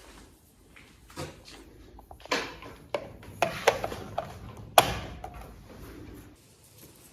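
A string of irregular knocks and clatters, the loudest about two and a half and five seconds in, dying down near the end.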